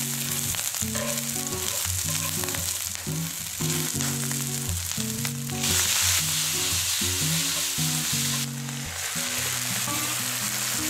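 Spam strips and sliced green onion sizzling as they fry in a hot wok, stirred with chopsticks. About halfway through, the sizzle briefly flares louder as the drained ramen noodles go into the pan.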